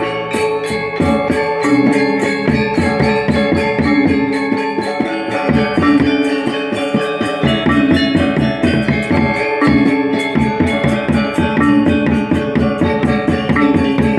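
Balinese gamelan gong ensemble playing: bronze metallophones and gongs sound sustained tones under a fast, steady pulse of strokes, with drums and bright metallic cymbal clashes.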